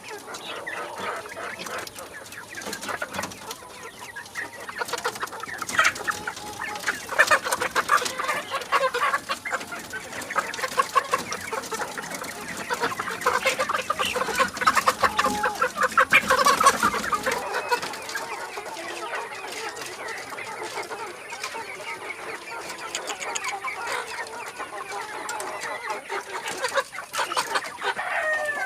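Ayam Cemani chickens clucking, several at once, in a dense run of short overlapping calls that is busiest in the middle stretch.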